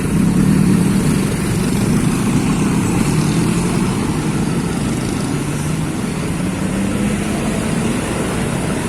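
Bus diesel engine running steadily, its pitch wavering slightly without a sharp rev.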